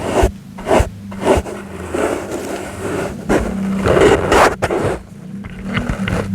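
Soft brush strokes sweeping close to the microphone for ASMR: three quick strokes at first, then longer sweeps.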